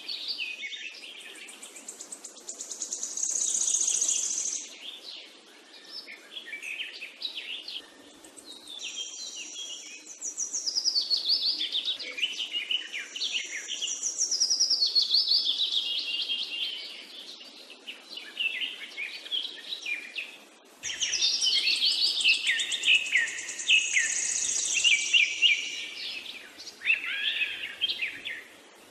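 Birds chirping and singing, many quick overlapping chirps and trills that swell and fade in loudness.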